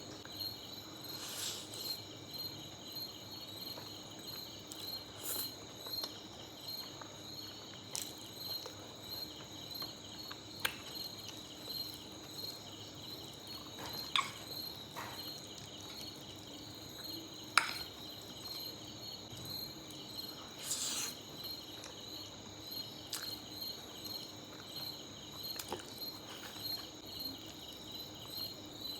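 Insects, cricket-like, chirping steadily in a fast even pulse throughout. Scattered over it are short sharp clicks and brief slurp-like sounds of someone eating spaghetti, a few of them noticeably louder.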